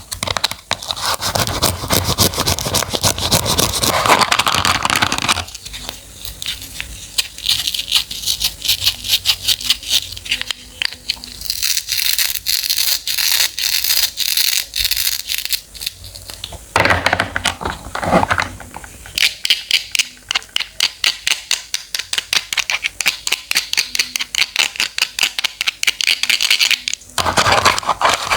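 Knife cutting fruit and vegetables on a cutting board in rapid, even chopping strokes, several a second, broken by a few stretches of denser slicing and scraping noise.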